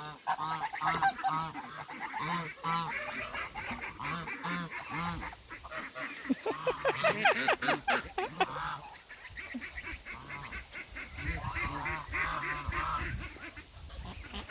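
Domestic geese honking, many short calls overlapping in quick succession, loudest a little past the middle.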